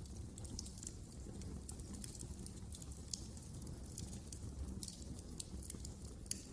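Wood fire in a fireplace crackling, with frequent small irregular pops over a low steady rumble of the flames.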